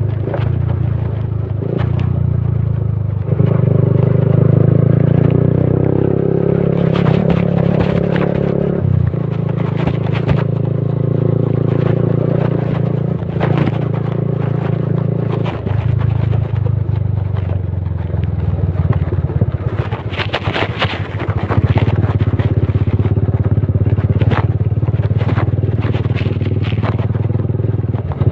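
Yamaha motorcycle engine running while riding, its note stepping up and down several times as the revs change, with clicks and rattles throughout.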